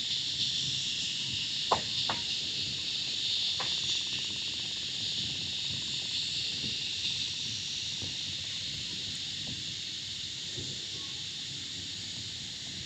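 Loud, steady chorus of cicadas, a dense high shrill with no break. A couple of sharp knocks come about two seconds in.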